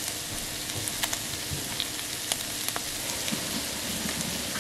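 Food frying in a pan with a canned chipotle pepper and its juice: a steady sizzle with scattered sharp pops and crackles.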